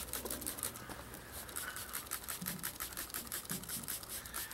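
Hand spray bottle of sugar water squirted over a package of honey bees: a quick run of short hissing squirts, several a second.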